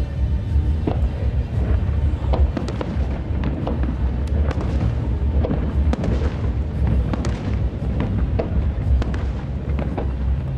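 Aerial fireworks shells bursting in quick succession: many sharp cracks and pops over a continuous low booming rumble.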